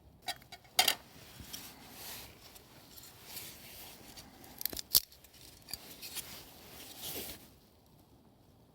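Handling noises: a few sharp clicks and clinks, the loudest a second in and about five seconds in, with scraping and rustling between them that stops suddenly near the end.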